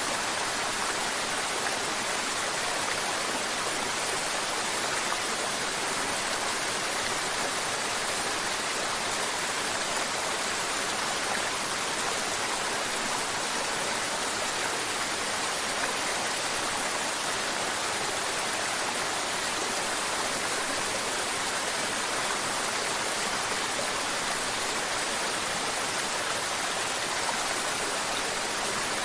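Mountain river water flowing and babbling, a steady hiss-like rush that holds an even level throughout.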